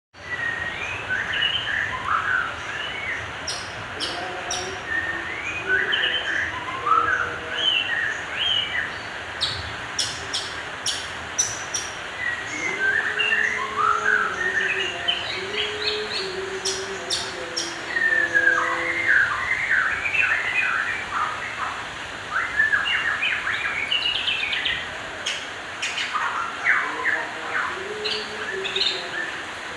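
White-rumped shama singing its soft 'whisper' song: a long, varied run of quick gliding whistles and twitters, broken by sharp high ticks and a few lower held notes.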